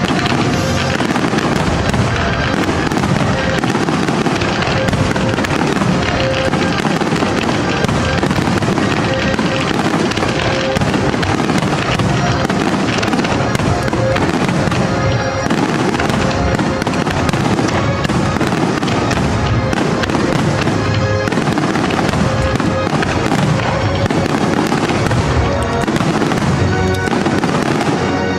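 Aerial fireworks of a pyromusical show going off in a dense, continuous barrage of crackling bursts, with the show's music playing along underneath.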